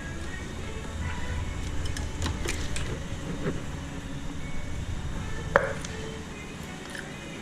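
Hand tools and metal parts clinking and knocking during engine removal, with one sharp metal clank about five and a half seconds in, over a steady low hum.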